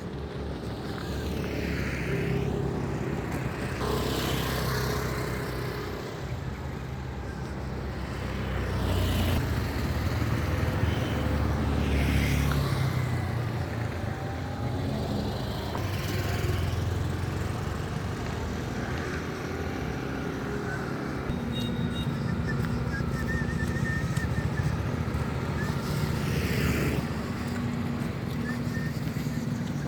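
Road traffic: vehicle engines humming steadily, with one vehicle after another passing close by, each swelling up and fading away.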